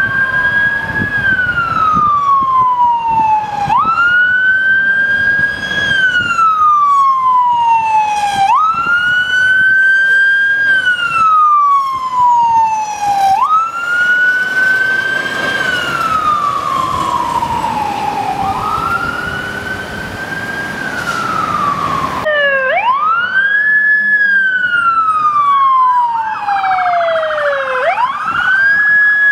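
Emergency vehicle siren on wail, each cycle rising quickly and then falling slowly, repeating about every five seconds. About two-thirds of the way through, the sound cuts to another wailing siren with the same rise-and-fall pattern.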